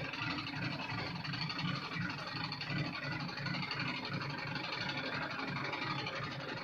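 A farm vehicle's engine running steadily, with a regular low throb.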